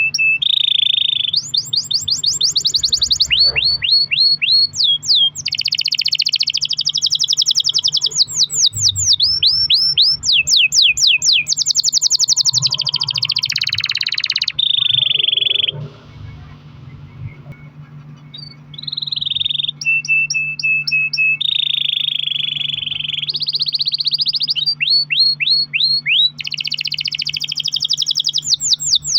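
Domestic canary singing a long rolling song: fast trills of rapidly repeated notes and sweeping chirps, switching from phrase to phrase, with a pause of about three seconds around the middle.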